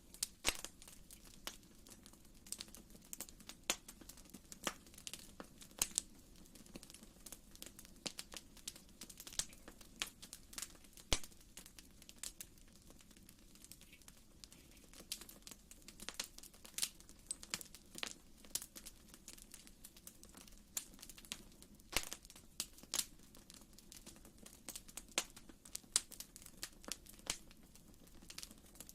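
Wood fire in a fireplace crackling: irregular sharp pops and snaps, several a second at times, over a faint steady low rumble.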